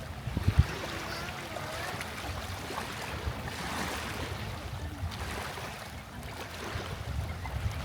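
Seawater washing over the shore with wind on the microphone, a steady rushing noise with a couple of low bumps about half a second in.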